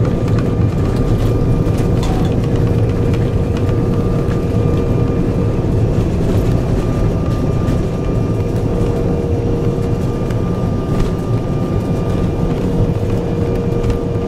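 Cabin noise inside an Embraer 175 taxiing after landing. Its two GE CF34 turbofans make a steady low rumble, with a steady whine running through it.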